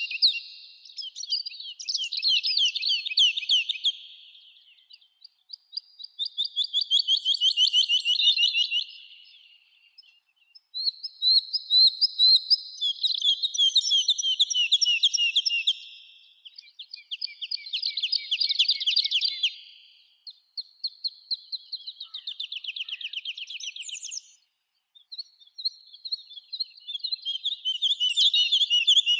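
Songbirds singing in a summer forest: repeated phrases of rapid, high trilled notes, each a few seconds long, broken by short pauses.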